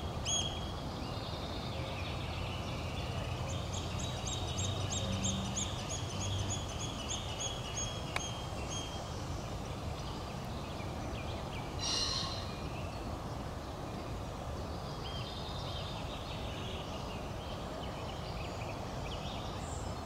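Small wild birds calling over a steady outdoor background noise: a quick run of evenly spaced high notes a few seconds in, a short burst around the middle, and scattered chirps near the end.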